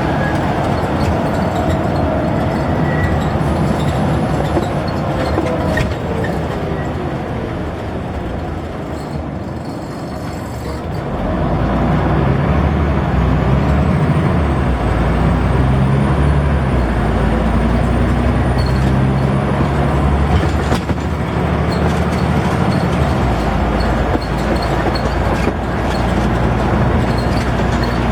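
Scania N94UD double-decker bus engine heard on board: the engine note falls as the bus slows, runs quieter for a few seconds, then climbs again from about eleven seconds in as the bus pulls away and accelerates.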